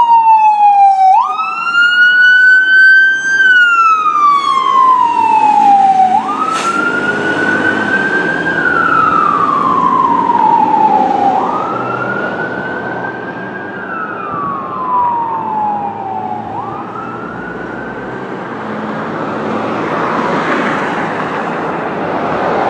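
Fire engine siren wailing: each cycle jumps quickly up in pitch, holds, then slides slowly down, repeating about every five seconds. It grows fainter and dies away about 17 seconds in, leaving rising road and traffic noise.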